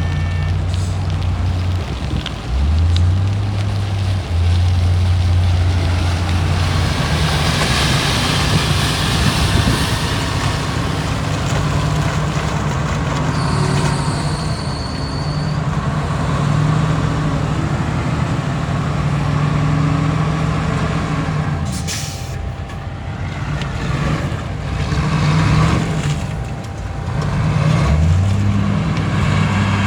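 Heavy diesel engines of earthmoving machinery (bulldozer and dump trucks) running under load, their note rising and falling. A high beep lasts about a second and a half near the middle, and a short sharp hiss comes about two-thirds of the way through.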